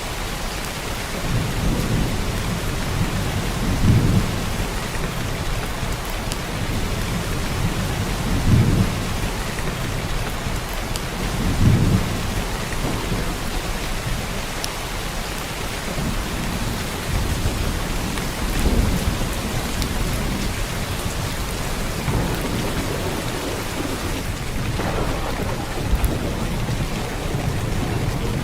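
Heavy downpour of rain falling steadily, with several brief low rumbles or thumps at irregular intervals.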